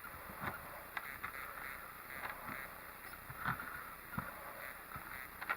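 A spoon scraping the seeds and stringy pulp out of a halved acorn squash: irregular scrapes and light knocks, about two a second.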